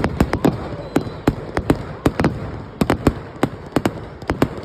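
Fireworks crackling and popping: a quick, irregular run of sharp cracks, several a second.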